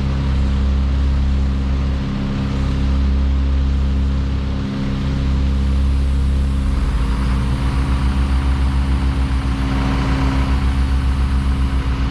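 Large engine idling steadily, a deep hum. About halfway through it takes on a rhythmic pulsing of roughly five beats a second.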